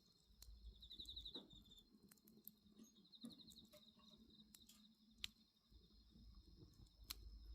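Faint wood fire crackling, with scattered sharp pops, the strongest about five seconds in. Behind it, night insects trill steadily at a high pitch, with short pulsed trills about a second in and again around three seconds.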